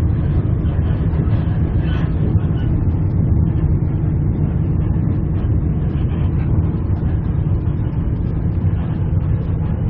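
Passenger train running along the line, heard from on board as a steady low rumble.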